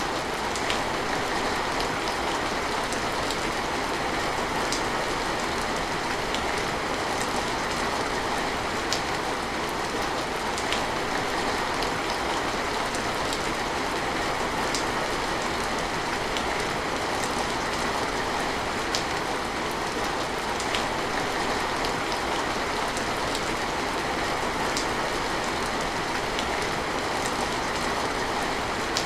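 Steady rain falling, an even rushing hiss with occasional single louder drops ticking through it.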